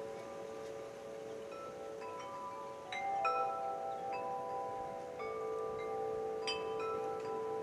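Wind chimes ringing, several tones overlapping and sustaining. A louder cluster of strikes comes about three seconds in, and another near the end.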